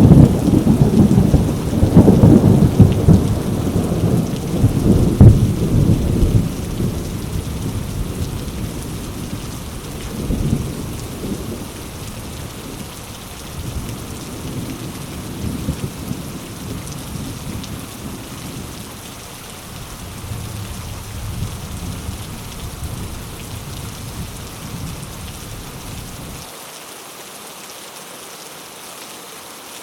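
Heavy rain falling steadily on mango leaves, with a deep thunder rumble that is loud at first, slowly rolls away and drops out near the end, leaving only the rain.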